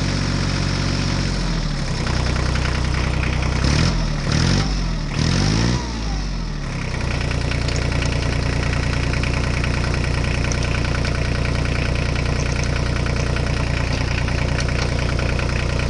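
Engine idling, revved up and down several times in quick succession, then settling back to a steady idle.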